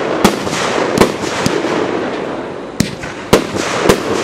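Fireworks display: aerial shells bursting in about six sharp bangs at uneven intervals, over a continuous hiss and crackle from burning stars.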